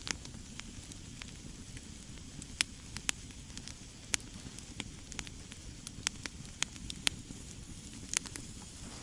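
Wood campfire crackling, with sharp pops at irregular intervals, the loudest about two and a half, three and seven seconds in.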